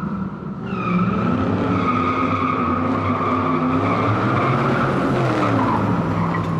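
Car engine revving up and down with a sustained, high-pitched tire squeal.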